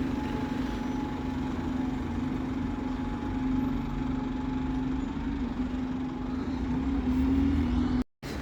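Bus engine idling steadily with a constant hum, rising a little in pitch just before the sound cuts out abruptly near the end.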